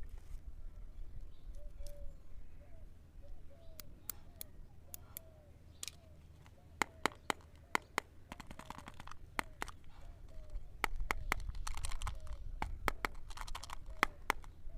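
Candy and chocolate-egg packaging being handled and opened by hand: sharp clicks and taps, growing busier after a few seconds, with short spells of plastic wrapper crinkling.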